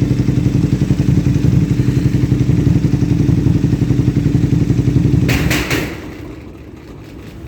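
KTM motorcycle engine with a straight-through exhaust idling loudly with a rapid pulsing beat and a loud knock. About five seconds in there are a few sharp thumps, and the engine stops.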